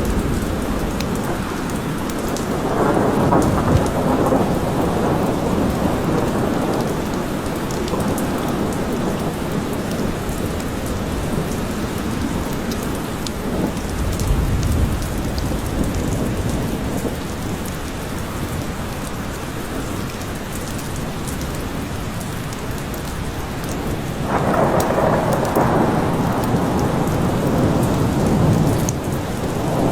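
Steady rain falling, with low rolling rumbles of thunder. A longer, louder roll of thunder sets in suddenly near the end.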